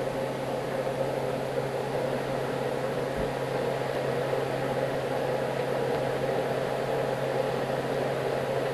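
Steady mechanical hum with an even hiss, unchanging, like a running appliance motor or fan.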